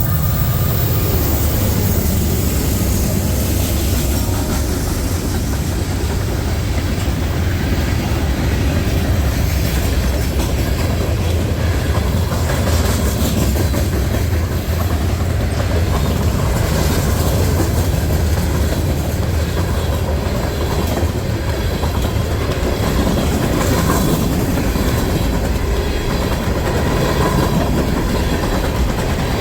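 Norfolk Southern manifest freight train rolling past, a steady loud rumble with the wheels clattering over the rail joints.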